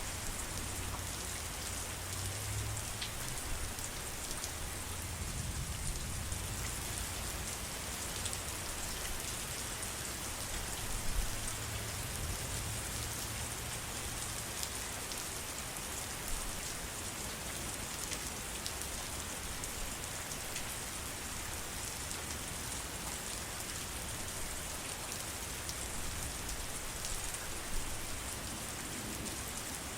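Steady heavy rain falling, with a low rumble underneath that fades about halfway through.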